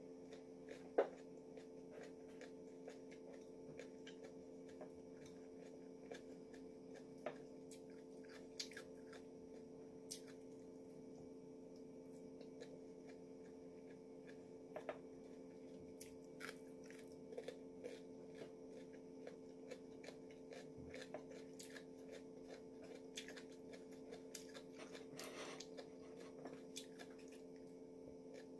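Chewing and mouth sounds of a person eating macaroni, with scattered light clicks of chopsticks against a plate; the sharpest click comes about a second in. A steady hum runs underneath.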